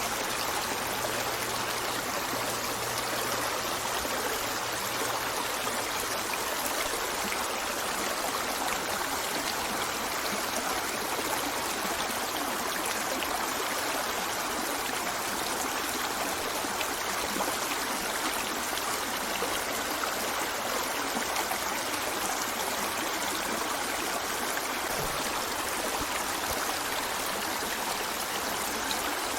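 River water flowing steadily over stones, a continuous rushing with fine trickling and gurgling.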